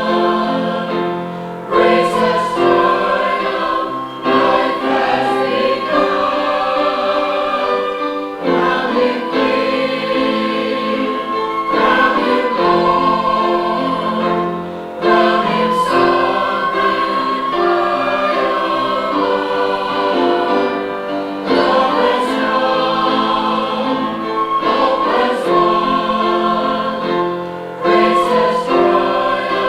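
Church choir singing a sustained choral piece in phrases a few seconds long.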